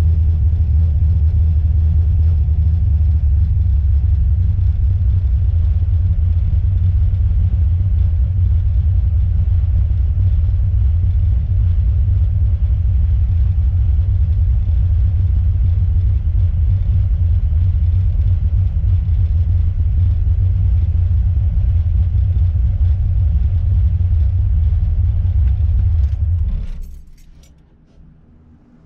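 Steady low rumble of a car's engine and road noise heard from inside the cabin while driving. About 26 seconds in it cuts out sharply, as when the engine is switched off, and a few light clicks and rattles follow.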